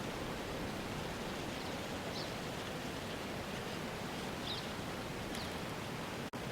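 Steady hissing outdoor ambience with a few faint, short, high chirps scattered through it. The sound drops out briefly near the end.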